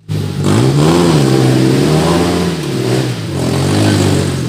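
Off-road 4x4's engine revving up and down several times under load as it crawls through mud.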